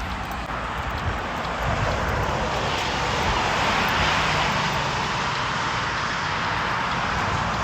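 A vehicle passing along a road, its noise swelling to a peak about four seconds in and then easing off.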